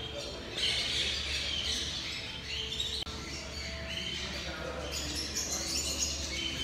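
Many small birds chirping and twittering together, with a steady low hum underneath.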